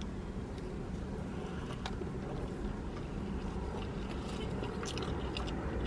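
Chewing with faint mouth clicks over a steady low rumble of a car interior.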